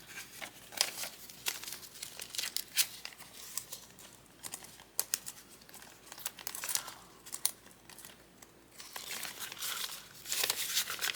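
Paper banknotes and cash envelopes being handled and stuffed: irregular crinkling and rustling with sharp little snaps.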